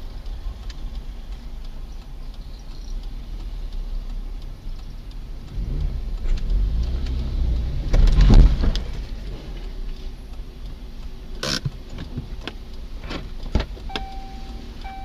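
Car engine and road rumble. A vehicle's engine swells and rises in pitch to its loudest about eight seconds in, then falls away. A few sharp clicks follow, and near the end a repeating electronic beep starts.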